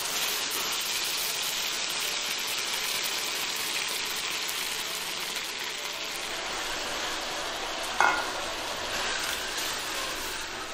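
Beef slices sizzling as they stir-fry in oil in a nonstick pan, a steady frying hiss. About eight seconds in, a single sharp clink of a utensil against the pan.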